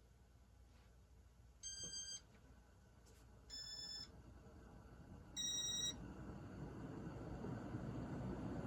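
Three short electronic beeps a couple of seconds apart, the last the loudest, then a Casablanca Saturn ceiling fan starting up, its whirring and air noise building steadily as it spins up; its top bearing is worn and noisy.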